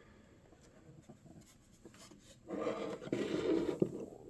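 Cardboard and plastic display pieces being handled, rubbing and scraping against each other. A couple of near-silent seconds with faint ticks come first; the rubbing starts about halfway through.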